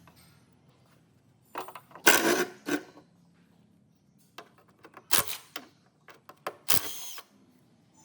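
Metal tools and engine parts being handled, a string of sharp metal clinks and clatters with short gaps between them, the loudest about two seconds in.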